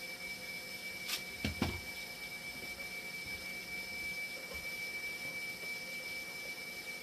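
Hemodialysis machine running its test cycle: a steady hum with a thin high whine, and a click followed by two dull knocks about a second and a half in.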